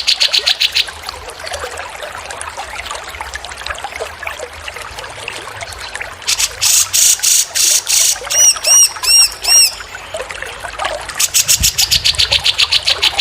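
Recorded songbird calls over a steady trickle of running water. Rapid trains of high repeated notes come at the start, a little past the middle and again near the end. Between them is a run of about six short, arched whistled notes.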